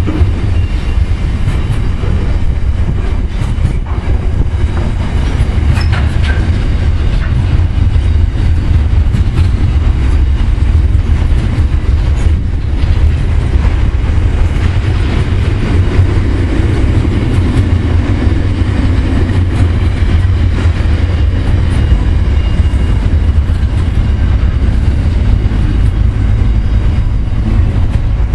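Container wagons of a long intermodal freight train rolling past close by: a loud, steady rumble of steel wheels on rail with scattered clicks as the wheels pass over the rail joints.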